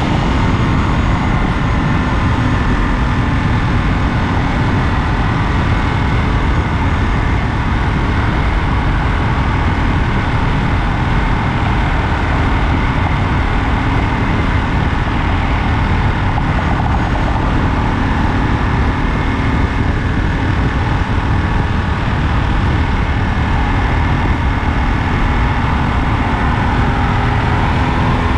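Ducati Monster 937's L-twin engine running at a steady highway cruise, its note held even under a dense rush of wind and road noise.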